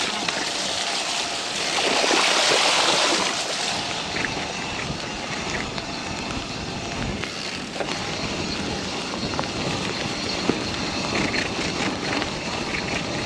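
Mountain bike riding down a muddy trail: wind rushing over the microphone mixed with tyre and chassis rattle, with a louder hiss of wind for a couple of seconds near the start.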